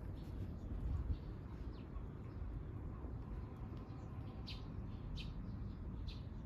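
Short, high bird chirps, faint at first and clearest three times in the second half, over a steady low rumble.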